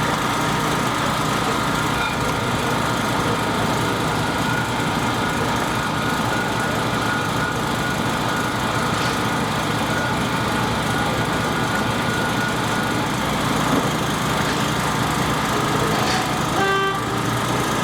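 Construction machinery engine running steadily, with a short horn-like tone near the end.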